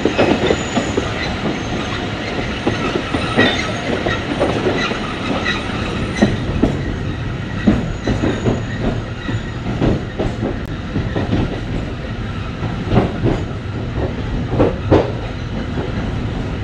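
Alishan Forest Railway train running, heard from inside the carriage: a steady low rumble with the wheels clattering and knocking irregularly over the track.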